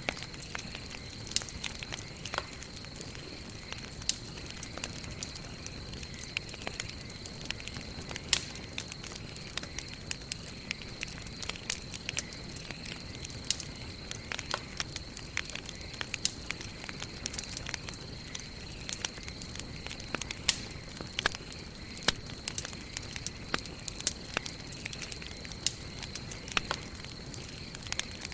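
Wood fire burning, with a steady low hiss and frequent sharp, irregular crackles and pops. A faint steady high-pitched tone runs underneath.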